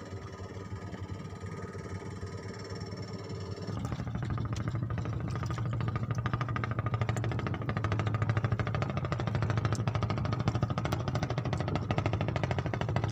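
Small engine running with a fast, even knocking beat, growing louder about four seconds in.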